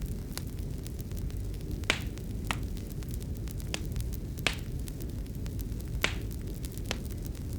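Fireplace fire crackling: scattered sharp pops and snaps, the loudest about two, four and a half and six seconds in, over a steady low rumble.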